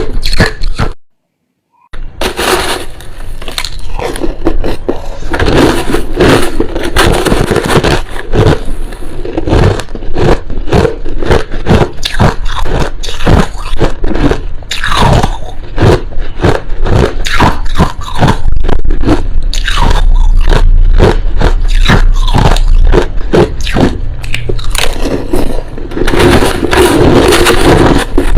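Crushed ice being bitten and chewed close to the microphone: a loud, dense run of crunching and crackling that drops out for about a second near the start.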